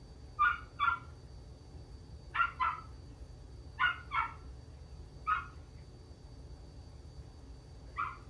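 A dog barking: about eight short, high-pitched barks, mostly in quick pairs a fraction of a second apart, with gaps of a second or more between the pairs.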